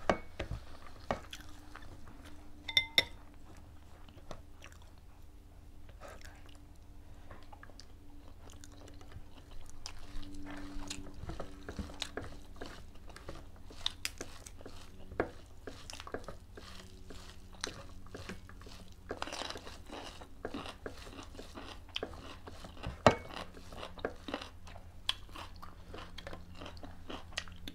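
Close-up chewing and crunching of food, with scattered small clicks and knocks from eating by hand off plates and bowls. A short clink comes near the start and a sharper knock about two-thirds through, over a low steady hum.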